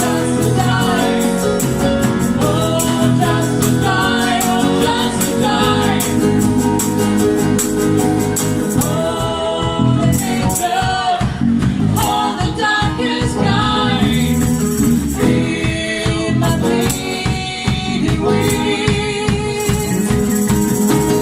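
Acoustic band performing a song: a singer's voice over sustained instrumental chords, with steady percussion strokes.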